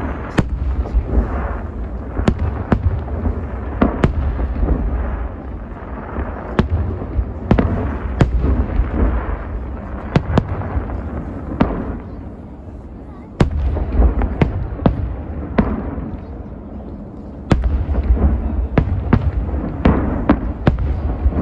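Large fireworks display: aerial shells bursting in quick, irregular succession, sharp bangs over a continuous deep rumble and crackle. The barrage thins out about twelve seconds in, then a new, heavier volley starts abruptly a second later and another about seventeen and a half seconds in.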